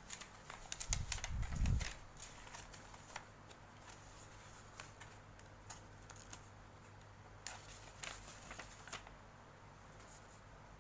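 Hands handling a figure's packaging: scattered light clicks, taps and rustles of plastic and cardboard. A few louder low bumps come about a second in.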